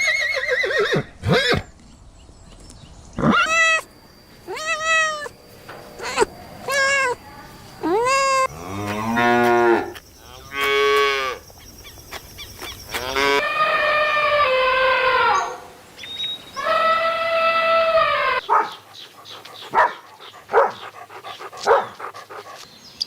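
Cattle mooing: a series of calls, some short and rising-then-falling, one long low call that falls in pitch, and two long drawn-out calls near the middle. After these the calls stop, leaving only faint short clicks.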